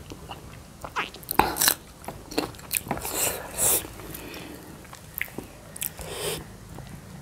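Close-up chewing and mouth smacking from people eating rice and pork curry with their fingers: a string of short, irregular wet clicks and bites.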